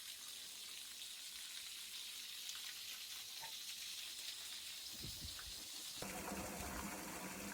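Garden hose spraying water in a steady hiss; about six seconds in the spray sound changes and gets fuller and lower.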